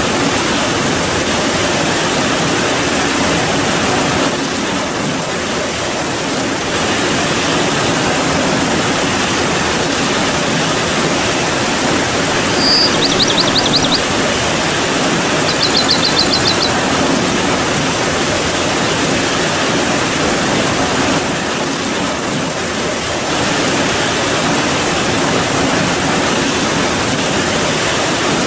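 Steady rain, a dense even hiss. A bird gives two short, high trilled calls near the middle.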